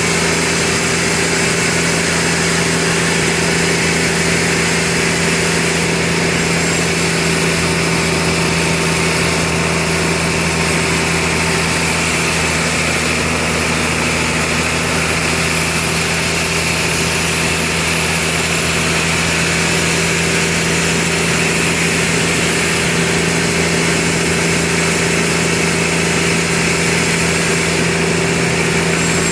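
Sawmill machinery running steadily with a constant hum and a loud, even noise above it that barely changes over the whole stretch.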